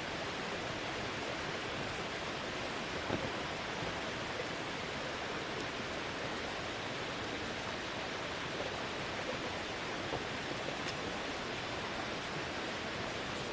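Steady, even rushing hiss with a few faint ticks and taps.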